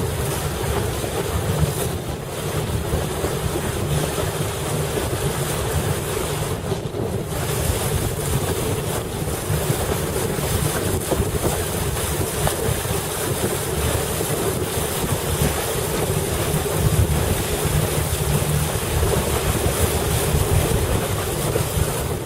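Strong wind buffeting the microphone over a steady rush of water against a moving boat in heavy wind.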